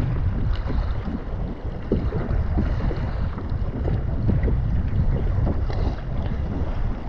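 Wind buffeting the microphone, with water splashing and sloshing against a kayak's hull on open sea.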